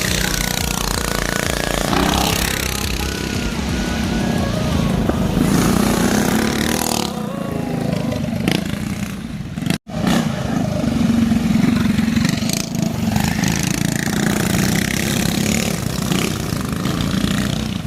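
Motorcycle engine running as the bike laps a dirt track, with the sound dropping out for an instant about halfway through.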